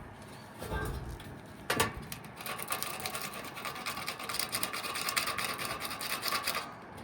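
Sandpaper rubbed rapidly back and forth around a condenser fan motor shaft: a fast, even rasping from about two and a half seconds in until just before the end, after a single knock a little under two seconds in.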